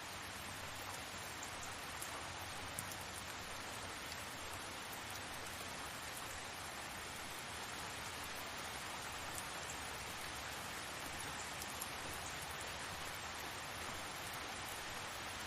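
Steady rainfall, an even hiss of rain with a few faint drop ticks.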